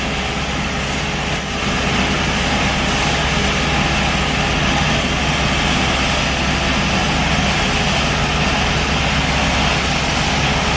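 Heavy vehicle engine running steadily, with a low hum under a broad rushing noise that dips briefly and then comes back a little louder about a second and a half in.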